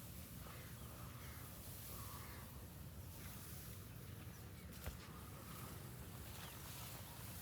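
Faint outdoor ambience with a low steady rumble, a few faint short bird calls, and a single sharp click about five seconds in.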